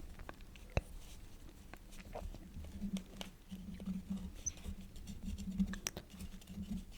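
Quill nib scratching and ticking on paper in light, irregular strokes, with one sharper tick about a second in.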